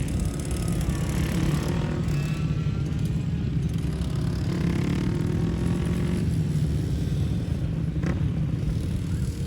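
Small motorcycle engines running on a racetrack, their pitch rising and falling as the bikes accelerate and slow through the corners.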